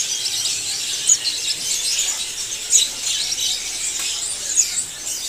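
A chorus of many caged songbirds chirping and twittering at once, a dense, steady wash of short high notes with a few louder chirps standing out.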